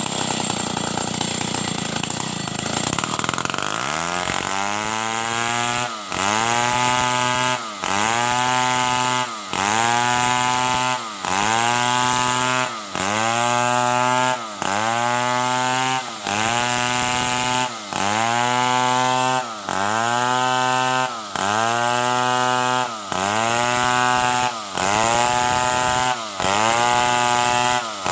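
Stihl 070 two-stroke chainsaw running hard. For the first few seconds the sound is a rough, noisy rasp, as when the chain is in the wood. After that the engine pitch repeatedly drops and climbs back up, with a short dip in loudness about every second and a half.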